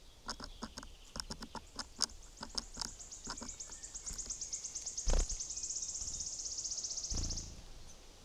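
Birds at a feeder: a run of sharp, irregular taps of pecking for about three seconds, then a small bird's rapid high trill that builds and holds for about four seconds. A heavy thump about five seconds in and a softer one near the end.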